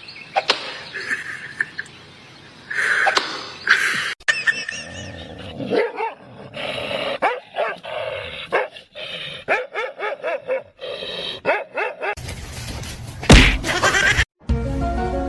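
A dog barking and yipping among short bursts of animal sounds, with a loud sudden noise near the end.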